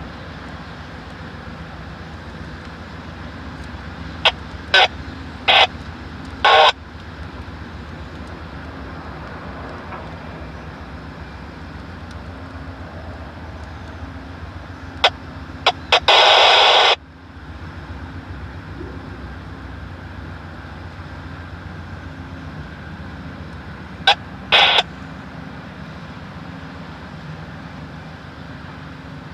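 EMD SW9 switcher locomotive's diesel engine idling steadily. Short bursts of static from a handheld radio scanner cut in three times in clusters, the longest lasting about a second in the middle.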